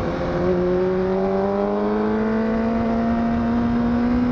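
Honda CBR1000RR's inline-four engine pulling in one gear while riding, its revs climbing slowly and smoothly, with wind noise.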